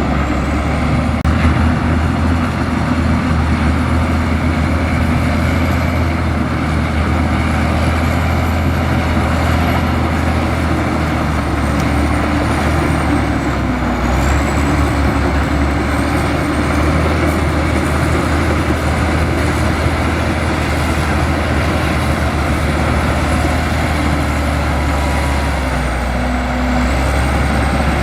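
Heavy diesel engine of an earthmoving machine running steadily, with a deep continuous rumble and a thin high whine that rises and falls.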